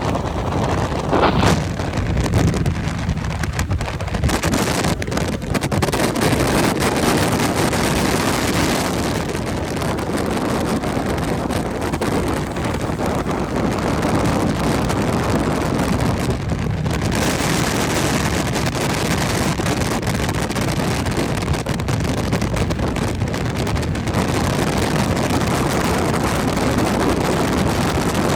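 Wind rushing over the microphone with steady road and engine noise from a vehicle moving at speed.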